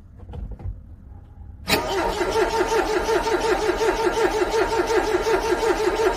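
A few faint clicks, then, under two seconds in, a car's starter motor suddenly begins cranking a cold engine. The engine turns over in a fast, even, pulsing rhythm without catching: a struggling cold start in freezing weather.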